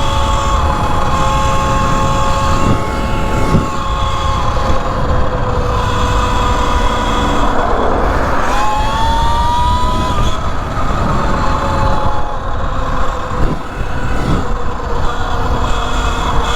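Electric motor whine of an E Ride Pro SS 3.0 electric dirt bike being ridden: a steady whine that dips and then rises in pitch about eight seconds in, as the bike slows and speeds up again. Heavy wind rumbles on the microphone throughout.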